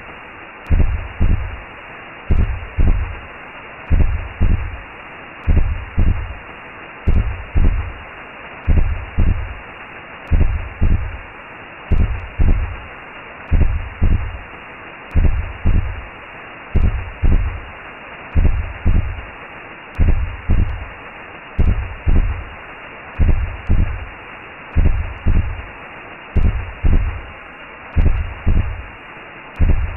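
Recreated womb sound: a steady low double-thump heartbeat, a little over one beat a second, over a continuous whooshing hiss like blood flow heard from inside the mother's belly.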